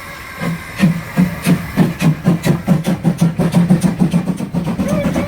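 Narrow-gauge steam locomotive starting off, its exhaust chuffing in beats that quicken from about two to about four a second as it gathers speed.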